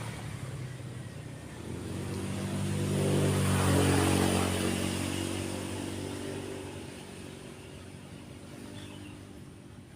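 A motor vehicle passing by: its engine grows louder to a peak about four seconds in, then fades away.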